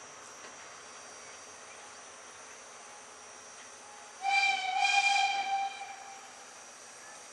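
Steam locomotive whistle giving one short blast about four seconds in, a single clear tone lasting about a second and a half.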